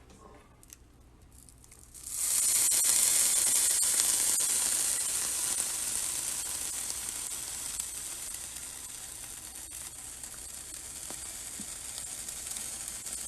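Food frying in a hot pan: a sizzle starts suddenly about two seconds in and slowly dies down.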